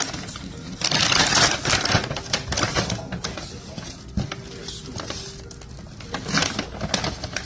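Rustling of brown paper shopping bags with light clicks and knocks as items and cards are packed into them; the loudest burst of rustling comes about a second in.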